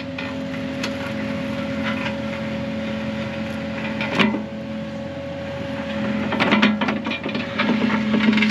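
Kubota KX080 excavator's diesel engine running at a steady pitch while the bucket digs, with a sharp clunk about four seconds in and a run of scraping and knocking in the second half.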